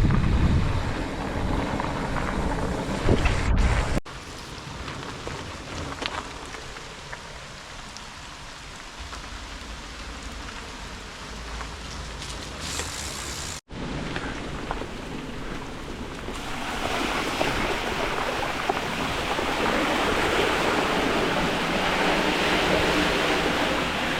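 Steady rushing noise of riding a bicycle in heavy rain. At first wind buffets the microphone with a low rumble, then the noise turns quieter. From about two-thirds of the way through, a louder hiss of rain and wet road builds, with two abrupt cuts along the way.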